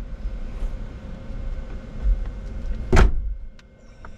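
A single sharp knock about three seconds in, over a steady low rumble.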